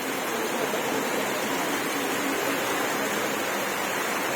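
Water falling steadily: an even rushing hiss without separate drops or knocks standing out.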